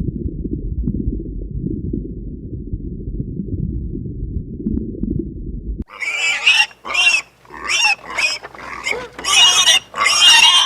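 A low, muffled rumble for about six seconds, then a run of loud, short animal squeals, roughly two a second.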